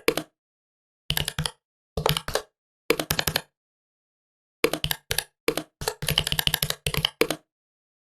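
Typing on a laptop keyboard: short runs of rapid keystrokes with pauses between, the longest run coming about six seconds in.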